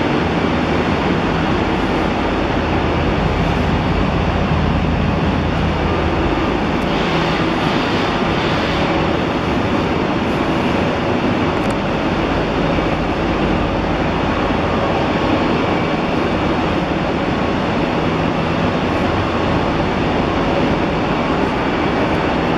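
Steady, loud rushing hum of a standing electric passenger train's ventilation and auxiliary equipment, with a brief rise in hiss about seven seconds in.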